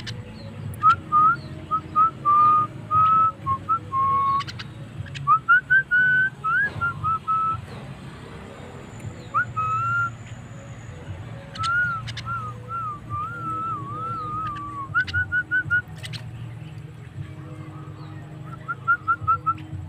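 Javan myna (jalak kebo) singing: a run of clear whistled notes, some sliding and warbling, broken by sharp clicks, over a steady low hum.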